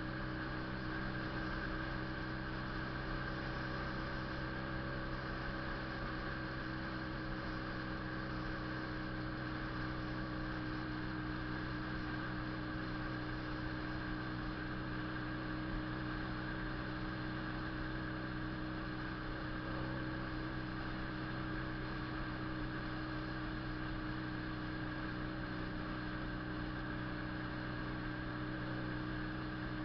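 Honda CB 400 II parallel-twin motorcycle engine running steadily at one even pitch, with no revving or gear changes.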